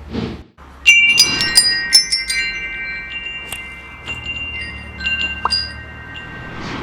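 Metal wind chimes struck by the wind: a quick flurry of strikes about a second in, then scattered single strikes, their high bell-like tones ringing on and overlapping.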